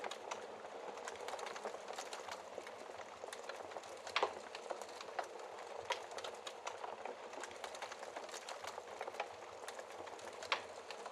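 Wood fire in a fireplace crackling, a steady hiss of flames under many small snaps of burning wood, with a few louder pops, the sharpest about four seconds in and near the end.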